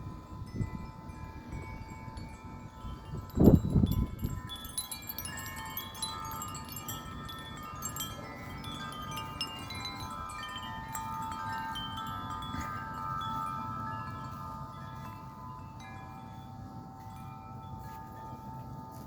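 Wind chimes ringing in a strong wind, many tubes struck over and over so their tones overlap and hang. About three and a half seconds in, a brief low buffeting rumble, the loudest moment, as a gust hits the microphone.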